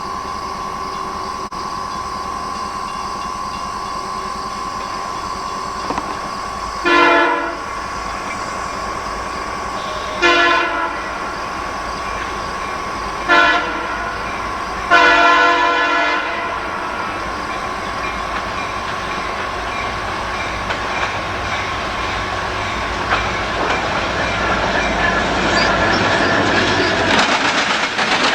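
Diesel locomotive air horn sounding the grade-crossing signal, long, long, short, long, as a freight train approaches. Then the train draws near and passes, with rising clickety-clack of wheels on the rail joints.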